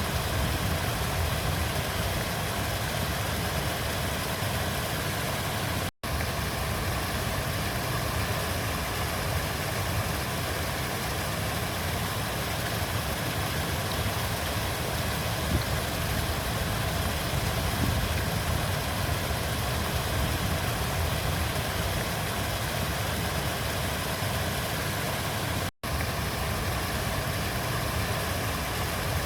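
River water flowing steadily, a continuous rushing with a deep low rumble. The sound cuts out for an instant twice, about six seconds in and near the end.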